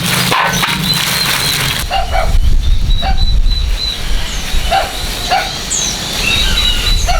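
Farmyard animal sounds: short repeated calls and a high bird chirp over a steady low rumble, after a hissing noise that stops about two seconds in.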